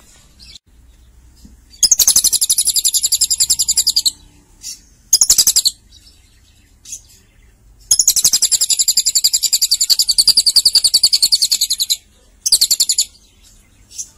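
Lovebird singing long, rapid, high-pitched trilled chatter in a cililin-like style. There are four runs: one of about two seconds, a short one, one of about four seconds, and a brief one near the end, with pauses between.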